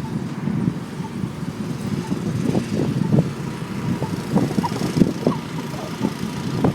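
Road traffic: cars passing on a town street, a continuous low rumble with uneven surges.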